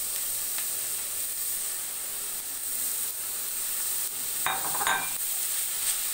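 Raw mutton mince frying in oil and onion-spice masala in a steel kadai, sizzling steadily. A brief clatter comes about four and a half seconds in.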